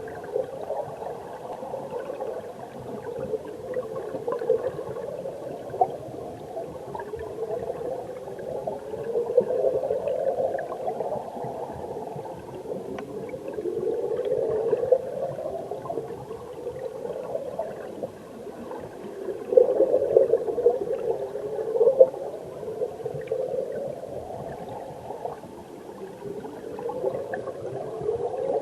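Stream water heard from underwater: a muffled, low gurgling rush that swells and rises in pitch every few seconds.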